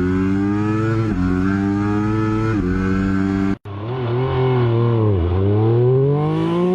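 Sport motorcycle engine accelerating hard, its pitch climbing and dropping sharply at each of two upshifts. After a sudden cut a little past halfway, an engine note falls and then climbs again as it revs back up.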